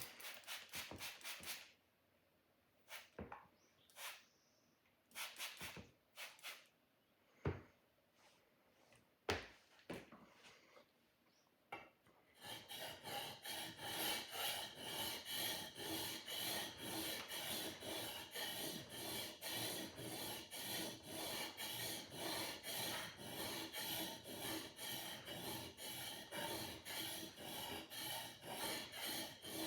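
A sword blade being sharpened, scraped against an abrasive: a few separate, uneven strokes at first, then from about twelve seconds in a steady run of quick, even back-and-forth strokes.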